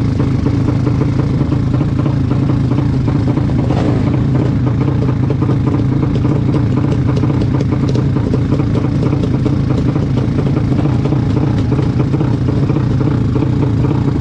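Motorcycle engine running at a steady speed, a constant low drone with light ticking clatter over it.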